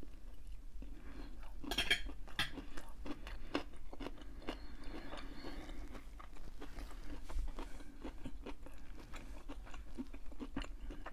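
A person chewing food close to the microphone: a steady run of many small clicks from the mouth and the food.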